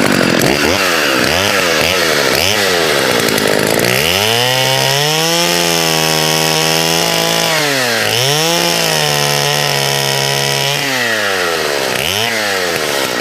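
Partner S55 two-stroke chainsaw, blipped up and down a few times, then held at full throttle through an easy cut upward through a suspended log. Its pitch dips once about midway. Near the end it drops back, with one more short rev.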